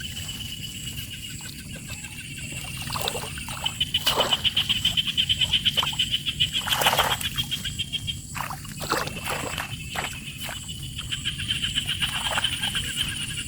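Animal calls: long, fast-pulsed high trills, repeated, over a steady low rumble, with a few short knocks between them.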